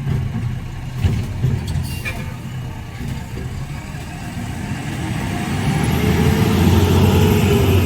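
Garbage truck's engine running close by, a steady low rumble. It grows louder about five seconds in as the engine revs up and back down.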